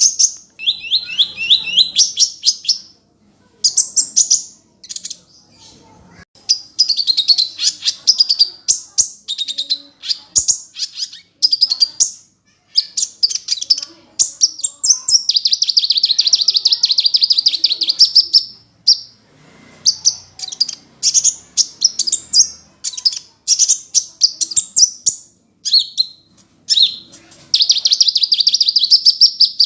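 Sunbird (Indonesian 'kolibri') singing a loud, high-pitched song of rapid chattering trills, broken by short pauses, with two long unbroken trills in the second half.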